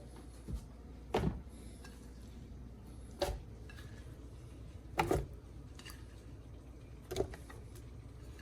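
A few separate clunks and clatters of kitchen utensils and dishes, about one every two seconds, over a faint low room hum.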